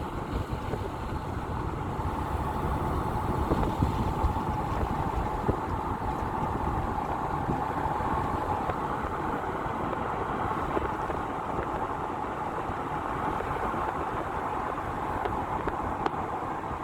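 Steady car driving noise: road and engine sound, with a faint steady whine.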